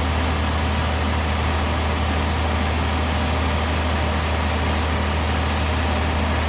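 A sawmill engine running steadily: a constant low drone that does not change in pitch or level.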